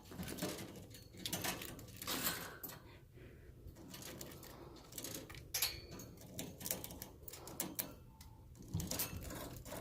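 Pet birds pecking, a string of light, irregular taps and clicks.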